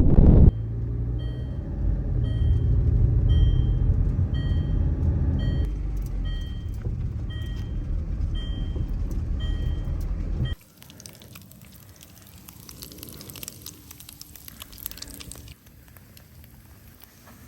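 A running vehicle with a short electronic beep repeating about every 0.7 seconds. About ten seconds in it cuts off abruptly, leaving a much quieter stretch with faint scattered crackles and ticks.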